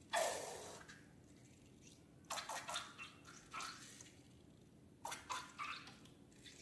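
Liquid slime ingredients landing in a container with one wet splat at the start. Short sticky squelches and drips follow in small clusters as the goo is poured and stirred.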